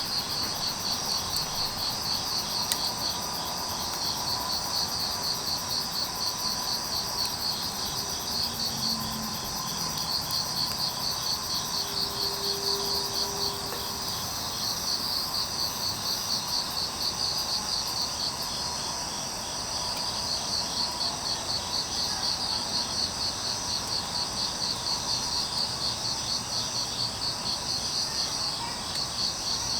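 Crickets chirping in a steady, rapid pulsing trill, with a fainter second insect tone lower down, over a faint even hiss. There is a single sharp pop about three seconds in.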